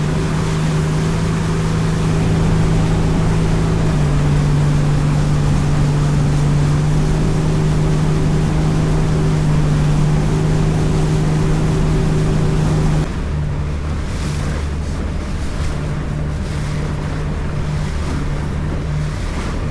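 Motorboat engine running steadily at speed, with wind and water rushing past the hull. About 13 seconds in the rushing hiss drops away and the engine note changes and gets a little quieter.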